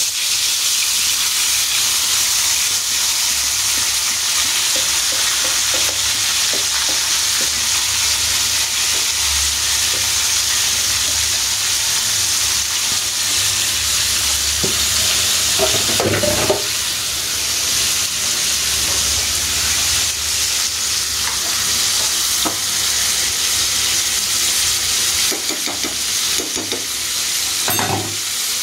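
Yogurt-and-lemon marinated chicken frying in a pan with a steady sizzle, the watery marinade cooking off.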